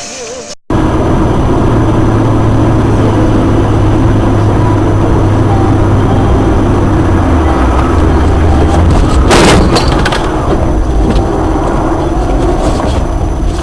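Dashcam recording from a moving car: loud, distorted road and engine noise with a steady low hum, and one sharp bang about nine seconds in.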